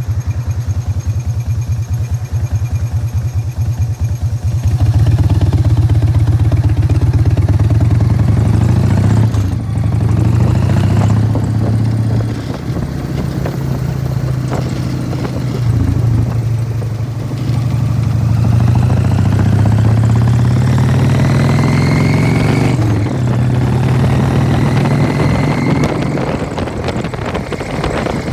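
1999 Harley-Davidson Fat Boy's Evolution V-twin running through Python mufflers. It lopes at idle for about five seconds, then gets louder as the bike pulls away. The pitch then rises through each gear and drops back at the shifts.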